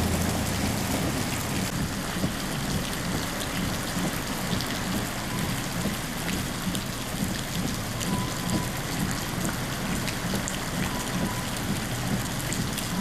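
Heavy rain falling, with many small drop impacts over a steady hiss and a low rumble underneath.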